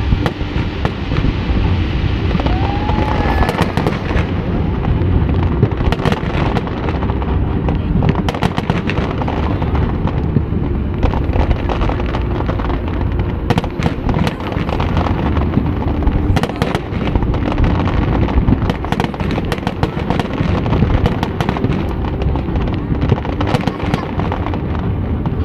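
Fireworks display going off continuously: a dense run of sharp bursts and crackles over a steady low rumble.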